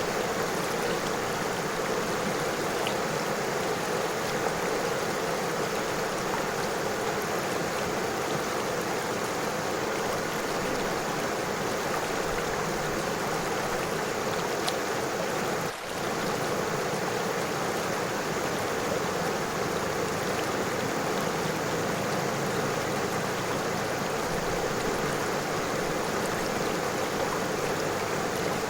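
River water flowing and rushing over stones, a steady even noise with a brief dip about halfway through.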